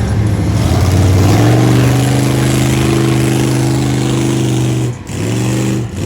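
Engine of a big off-road truck held at steady high revs. Near the end it drops off briefly twice and comes straight back.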